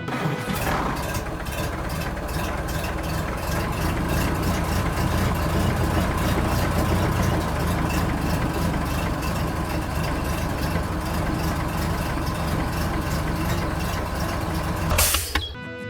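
Steady engine-like running noise with strong low rumble and a fast rattle, which cuts off abruptly near the end.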